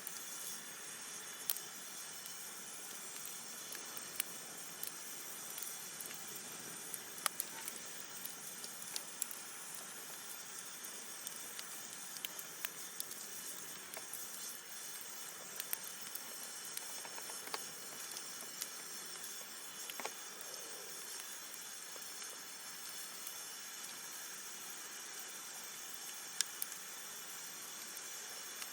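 Wood campfire burning with a steady hiss and irregular sharp crackles and pops from the burning wood.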